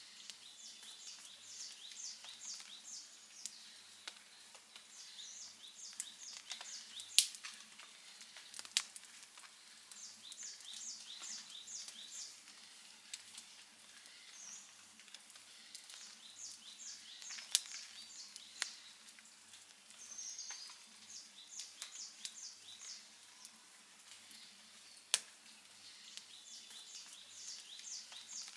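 Outdoor wood fire crackling, with a few sharp loud pops. Behind it, a high chirping call repeats in quick runs of five or six notes every couple of seconds.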